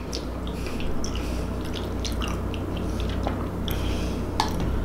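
Close-miked wet chewing and lip smacking of a mouthful of creamy macaroni salad, in small scattered clicks. A sharper click near the end as the wooden spoon dips into the ceramic cup.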